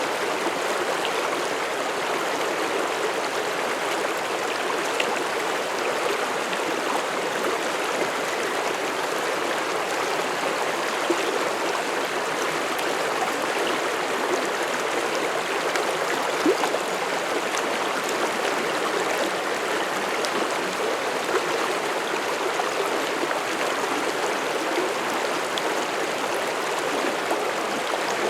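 Mountain stream in forest, water flowing steadily over rocks with a constant rushing babble and small splashes.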